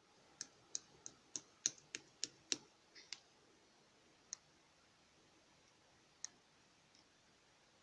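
Eraser slime being pressed and worked, giving sharp clicks: about nine in quick succession, then two more spaced a couple of seconds apart.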